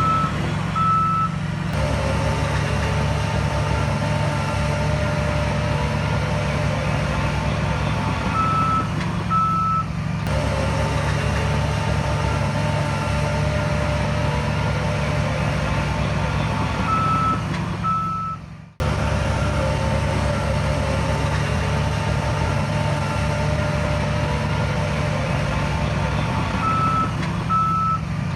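Heavy diesel earthmoving machinery running steadily, with a reversing alarm giving pairs of short beeps about every nine seconds. The sound cuts out for an instant about two-thirds of the way through.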